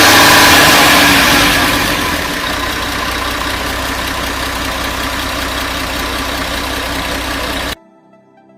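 Engine running at raised speed, then settling to a steady idle about two seconds in; the sound cuts off suddenly near the end.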